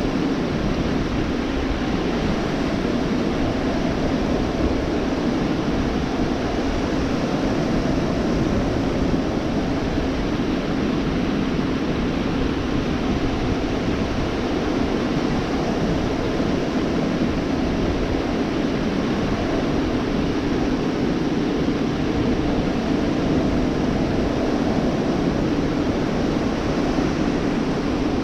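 Gulf of Mexico surf breaking and washing onto a beach, heard as a steady, even wash of noise with no distinct swells.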